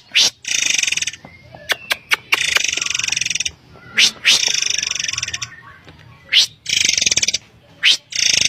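Murai air (forktail) calling: high, buzzy rapid trills of about a second each, repeated four times and alternating with short, sharp rising whistles.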